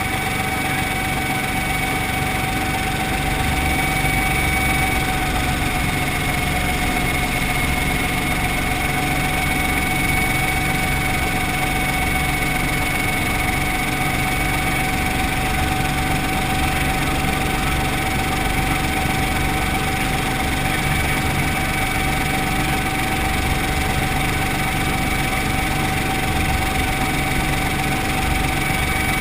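Brantly B2B helicopter's piston engine and rotor running steadily, with a steady high whine over the engine noise.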